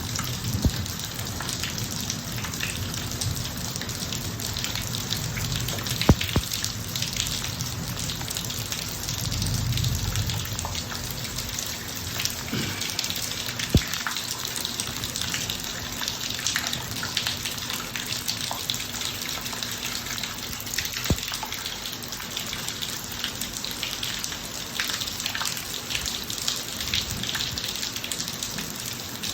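Steady rain from a thunderstorm falling on a driveway, with heavier drops ticking and a few sharp drop hits. A low rumble swells briefly near the middle.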